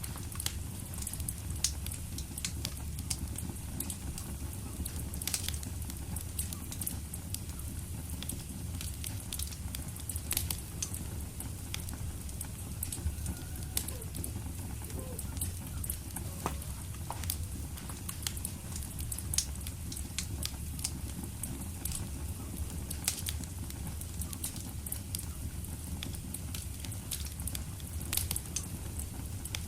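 Fireplace fire crackling: a steady low rumble of flames with frequent irregular sharp pops and snaps.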